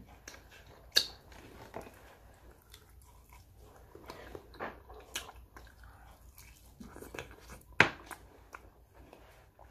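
A person chewing and biting into sauce-glazed fried chicken, close to the microphone, with soft wet mouth sounds and scattered sharp clicks; the loudest clicks come about a second in and near the end.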